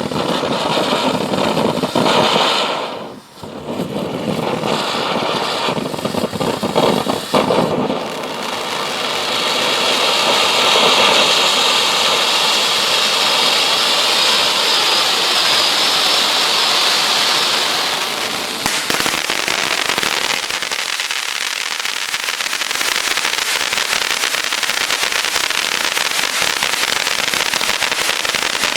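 Ground fountain fireworks spraying sparks with a continuous hiss. It is rough and loud at first with a brief drop about three seconds in, turns into a brighter, higher hiss from about eight seconds, and becomes a dense crackle from about nineteen seconds on.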